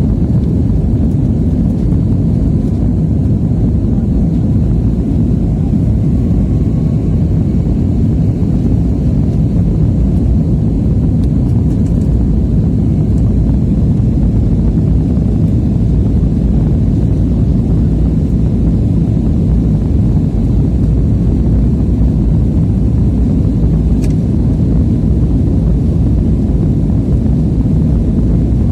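Airliner cabin noise: the steady, loud low rumble of jet engines and airflow, with no change in pitch.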